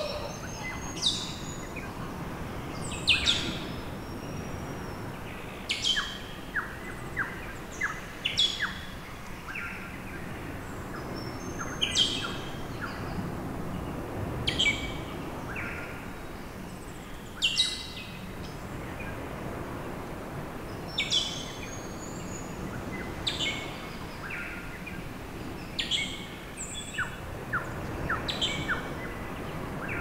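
Wild birds calling: short, high chirps every two or three seconds, with a few quick runs of lower ticking notes, over a steady low background rumble of outdoor noise.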